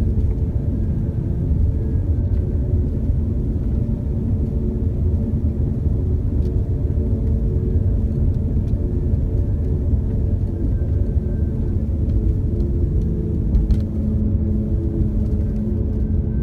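Car driving across the Mackinac Bridge: a steady low rumble of tyre, engine and wind noise, with a faint hum running through it.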